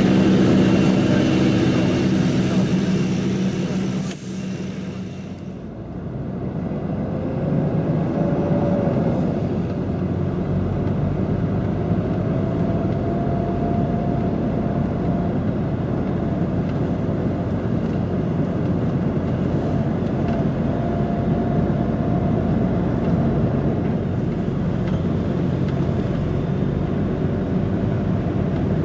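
DAF XF105 truck's diesel engine and road noise, heard while driving. About four seconds in the sound dips briefly, then settles into a steady rumble with a few faint slow rises in pitch.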